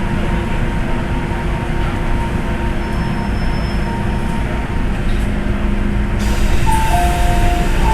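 MTR M-Train electric multiple unit running through an underground tunnel: a steady rumble of wheels on rail with a faint motor hum. About six seconds in, a hiss rises in the high range, and near the end two alternating high tones set in.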